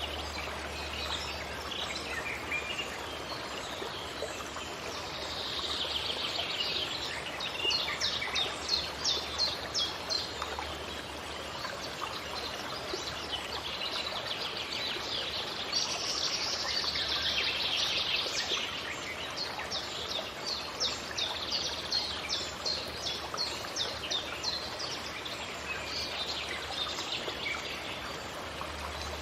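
Forest birds singing high twittering phrases, some in runs of quickly repeated notes, over a steady rush of flowing stream water.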